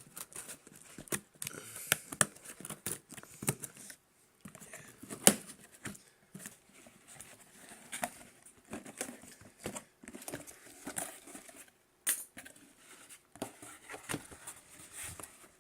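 Hands opening a shipping parcel: irregular rustling, crinkling and tearing of the packaging, with scattered clicks and a few sharp snaps.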